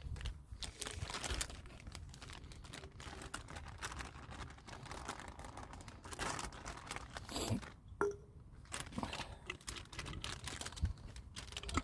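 A plastic bag crinkling and rustling in the hands, in irregular crackles, as a marinade of honey and barbecue sauce is put into it.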